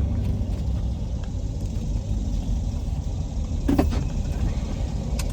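Steady low road and engine rumble inside a moving car's cabin. A short, louder sound breaks in a little before the end, followed by a faint click.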